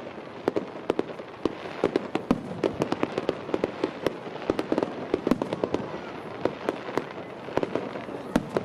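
Fireworks going off: a rapid, irregular run of cracks and pops, several a second, over a steady hiss of background noise.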